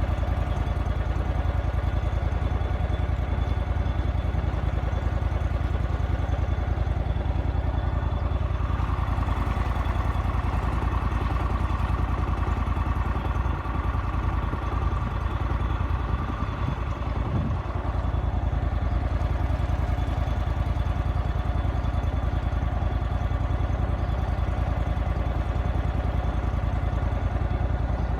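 An engine running steadily at low speed, a constant low rumble, with a faint higher whine in the middle stretch.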